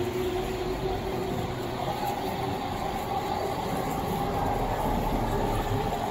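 Electric commuter train running past on the tracks beside the street, a steady rumble with a humming tone that rises in pitch about two seconds in.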